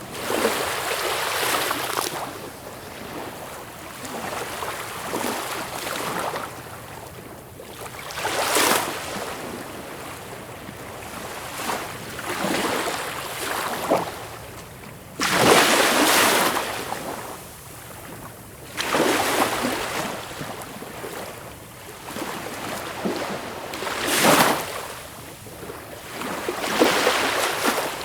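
Sea waves breaking and washing in, one after another. Each comes as a rushing hiss that swells and falls away every few seconds. The biggest breaks come about halfway through and again near the end.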